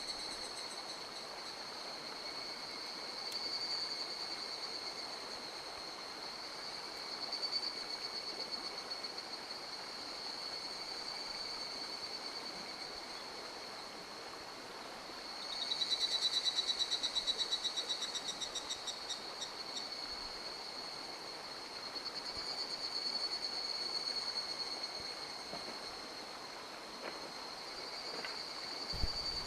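A mountain stream runs steadily under a continuous high-pitched chorus of calling animals, likely frogs or insects. About halfway through, a louder rapid trill rises for several seconds, and there is a short low thump near the end.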